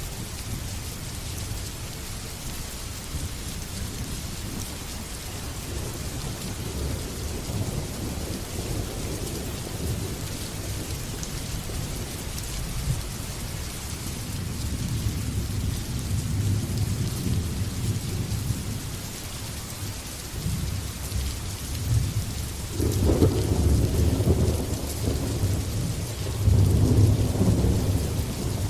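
Thunderstorm: steady rain hissing, with thunder rumbling low underneath and rolling louder in two surges near the end.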